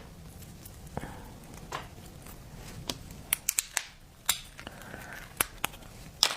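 Cooked brown crab's shell being cracked and picked apart: irregular sharp clicks and crunches, coming closer together around the middle.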